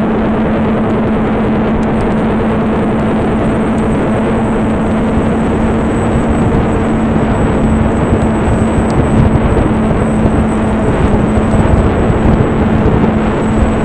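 Strong wind buffeting the microphone, gustier in the second half, over a steady hum from the propellers of a small twin-brushless-motor RC aircraft.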